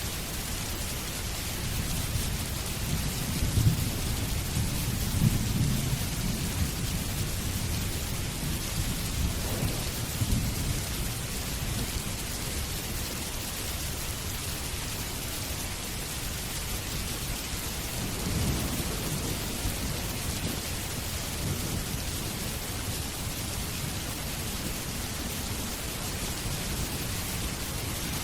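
Steady rain, with low rolls of thunder: the strongest a few seconds in, another around ten seconds and a softer one around eighteen seconds.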